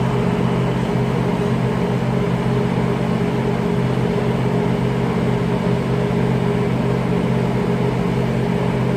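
Steady mechanical hum, even and unbroken, with no knocks or clicks standing out.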